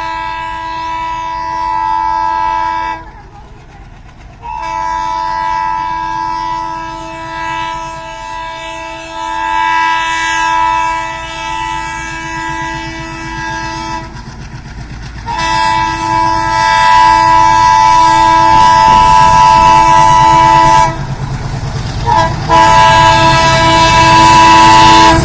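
Locomotive horn sounding four long, steady blasts of a few seconds each. Under the blasts runs the rumble of a train drawing nearer and getting louder, with some wheel clatter.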